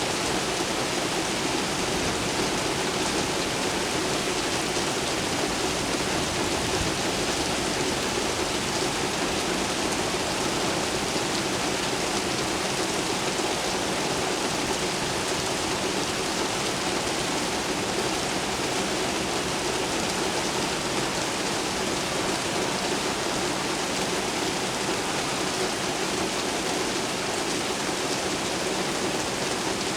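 Steady, heavy rain falling, with no thunder.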